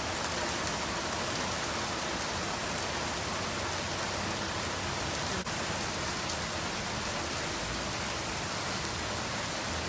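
Steady heavy rain falling, an even hiss of pouring rain.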